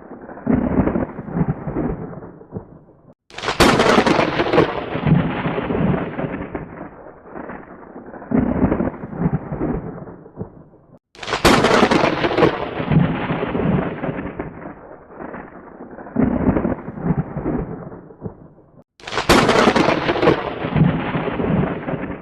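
Thunder: three sharp cracks about eight seconds apart, each followed by a rolling rumble that fades before the next, with a brief moment of silence just before each crack.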